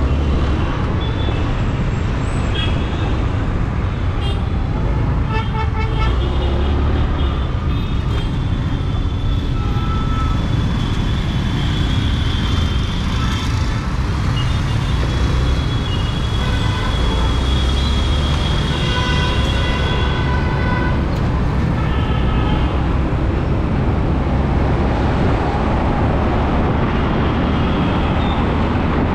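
Road traffic heard from a moving scooter: a steady low rumble with vehicle horns honking over it again and again, thickest in the first several seconds and again from about twelve to twenty-two seconds in.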